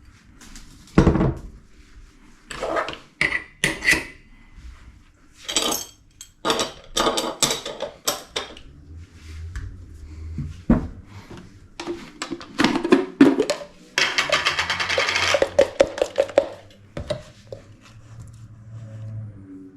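Kitchen clatter of dishes, pots and utensils: a string of separate knocks, clinks and scrapes, with a denser stretch of rattling about three-quarters of the way through.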